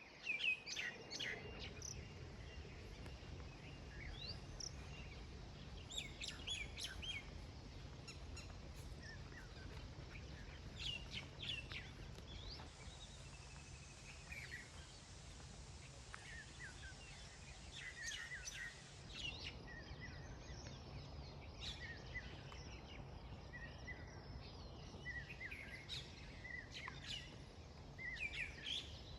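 Songbirds chirping and calling, short high chirps and quick whistled notes coming in clusters every few seconds, over a steady low background rumble.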